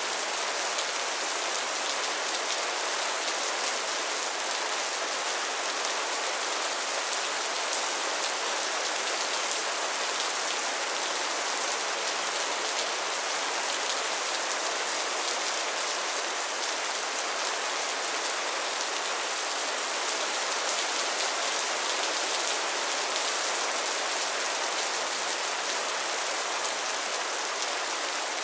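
Steady rain falling, an even hiss of many fine drops pattering on a surface, with no change in intensity.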